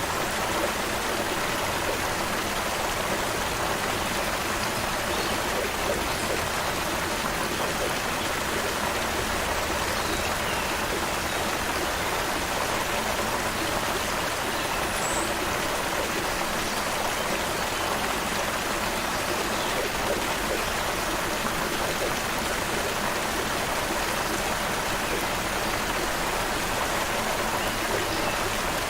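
Small stream flowing over rocks, a steady, even rush of water. One faint high chirp comes about halfway through.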